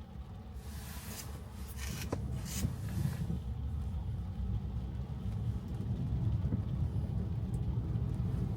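Low, steady rumble of tyres and road noise inside an electric car's cabin on a wet road, with a few short swishes of hiss in the first three seconds.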